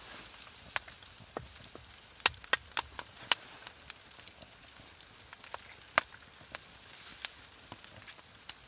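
Scattered sharp knocks and cracks: a quick run of four loud ones a couple of seconds in, another loud one about six seconds in, and fainter ticks between.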